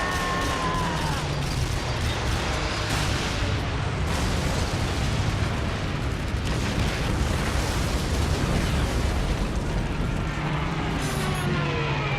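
Film battle sound: a continuous din of explosions over a deep rumble, with a falling whine at the start and again near the end.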